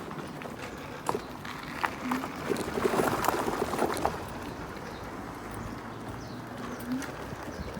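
Irregular knocks and rattles from a Chaos GT 1600 W electric scooter being ridden over bumpy ground, busiest about two to four seconds in.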